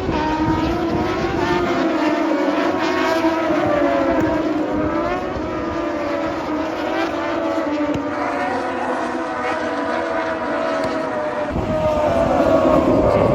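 Racing motorcycle engines on the circuit at high revs, several droning together, their pitch wavering up and down as they accelerate and back off.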